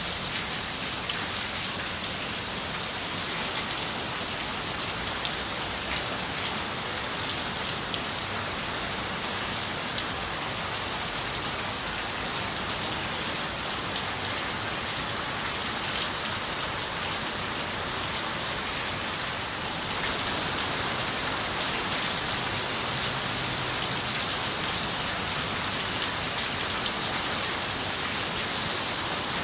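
Steady rain on a window, an even hiss with scattered sharper drop taps; it grows slightly louder about two-thirds of the way through.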